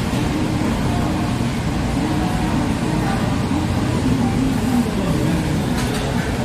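Steady restaurant din: a constant low rumbling hum with indistinct background voices.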